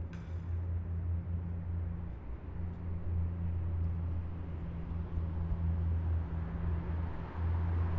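Engines of heavy military vehicles driving past in column: a steady, deep engine drone, with a brief hiss just after the start.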